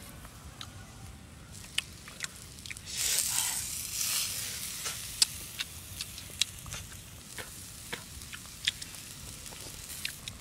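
Egg and fish frying on a hot flat stone, sizzling steadily with many sharp pops and crackles; the sizzle swells louder for about two seconds starting around three seconds in.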